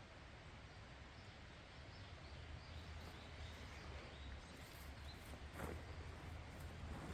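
Faint outdoor ambience: a low steady rumble with faint bird calls, and a few light clicks and rustles in the second half.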